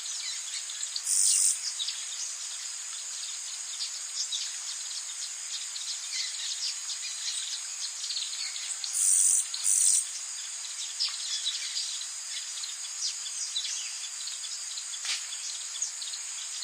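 Rainforest ambience: a steady high chorus of insects with scattered short bird chirps, broken by brief loud high-pitched buzzes about a second in and twice in quick succession around nine to ten seconds.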